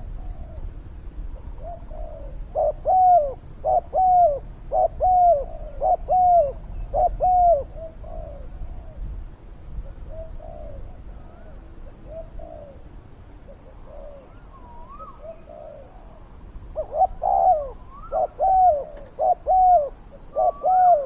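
Spotted doves cooing: two loud bouts of repeated coos, about one a second, with fainter cooing between them.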